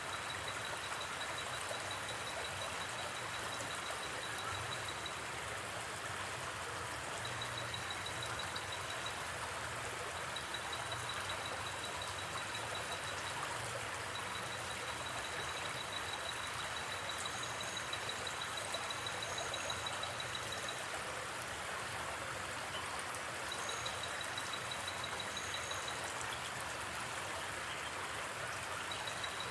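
Steady rush of a gently flowing river. Over it, a high pulsing insect trill comes and goes in stretches of a few seconds, with a few short, higher chirps in the middle.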